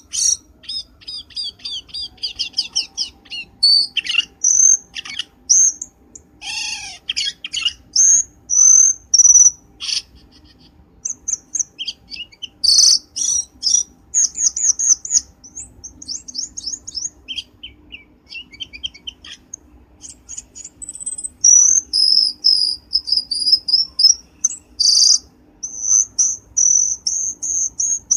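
Cucak keling birdsong played as a lure call: fast runs of high chirps and repeated short whistled notes, with brief pauses between phrases.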